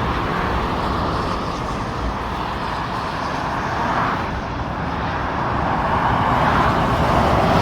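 Motorway traffic passing below, a steady rush of tyres and engines that swells as vehicles go by, about four seconds in and again near the end.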